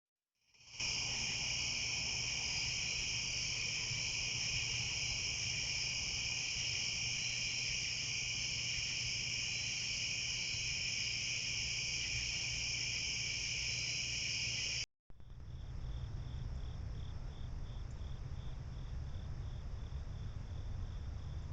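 Chorus of crickets and other night insects trilling steadily; after a break about 15 s in, a single insect's regular pulsing chirp, a few pulses a second, stands out over a fainter background chorus.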